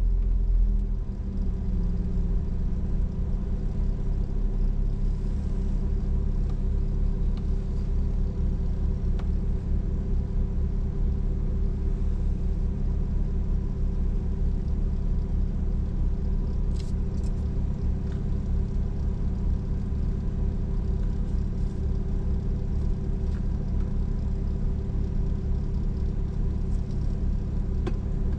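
Car idling while stationary, a steady low rumble with a slight dip in level about a second in as it comes to rest.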